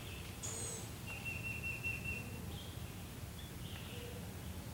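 Wild birds calling in woodland: a short high chirp, then a single steady high note lasting over a second, then a few short calls, over low steady background noise.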